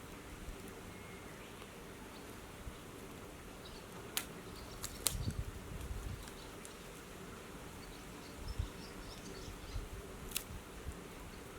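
Wood fire crackling outdoors: a few sharp pops, about four seconds in, five seconds in and near the end, over a low steady buzz and a few dull low thumps.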